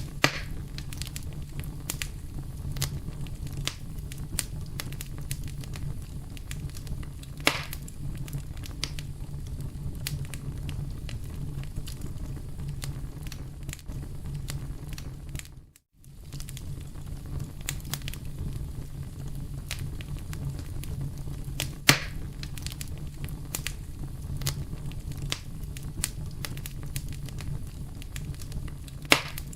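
Campfire burning: a steady low rumble of flame with constant small crackles and four sharper pops of the wood. About halfway through the sound drops out for a moment.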